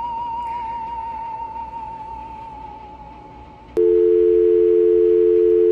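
A warbling tone with a fast vibrato slides slowly down in pitch and fades. A little under four seconds in, a loud, steady telephone dial tone cuts in abruptly and holds.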